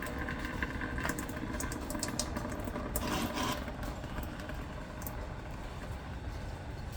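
Scattered light clicks and knocks of hand tools and metal parts as a Ford 8N tractor's carburetor is taken off, over a steady low rumble, with a brief louder scrape about three seconds in.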